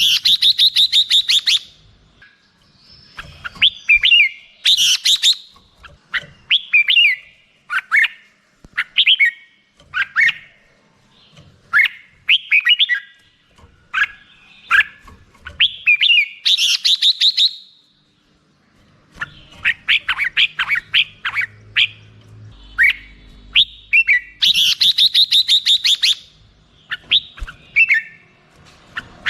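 Red-whiskered bulbul singing: short warbled phrases repeated about once a second, broken by quick runs of rapidly repeated notes at the start, about 5 s in, about 17 s in and about 25 s in.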